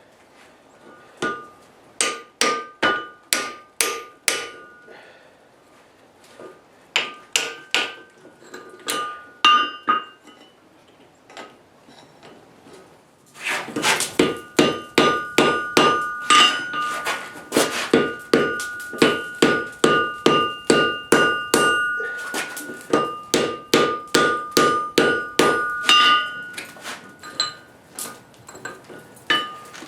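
Blacksmith's hammer forging steel on an anvil, the anvil ringing with each blow. Short runs of strikes with pauses in between, then from about halfway a long, louder run of about two blows a second.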